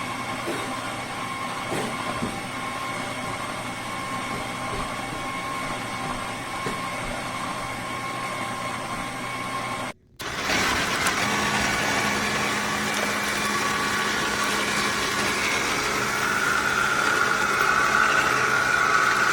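Cold-press slow juicer's motor running steadily as it presses fruit and vegetables, a continuous mechanical hum with a few steady tones. The sound cuts off briefly about halfway through and resumes with a somewhat different pitch, growing a little brighter near the end.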